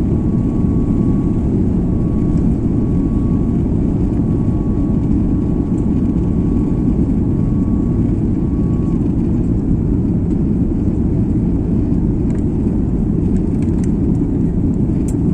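Jet airliner cabin noise: a steady, loud low rumble of engines and airflow, with a faint steady whine that stops about nine seconds in and a few light ticks near the end.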